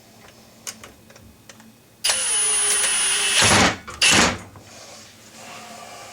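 A small motor-driven tool runs for about a second and a half, with a steady high whine, then gives two short, loud bursts. Light clicks and handling knocks come before it.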